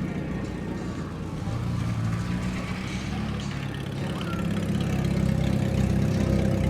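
Engines of the two-engine Opel Doppel stunt car running. The note rises about a second and a half in, and the engines get louder in the last couple of seconds.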